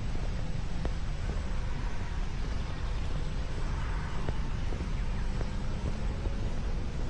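Steady low outdoor rumble, with faint light ticks scattered through it.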